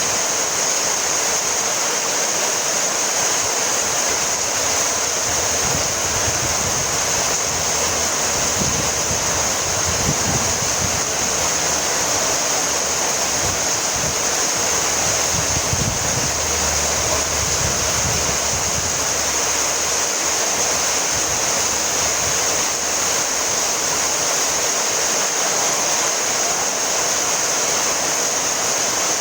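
Heavy rain falling steadily, a dense even hiss with no break. A faint low rumble swells and fades in the middle.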